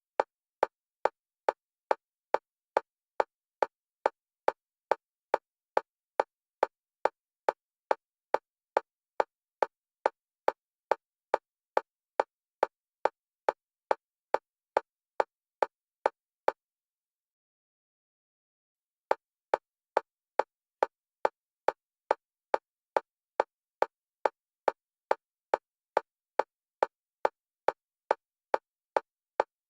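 Synthetic metronome clicks of a single pitch, about two a second, alternating left and right for EMDR bilateral stimulation. They break off for about two and a half seconds around the middle, then resume at the same pace.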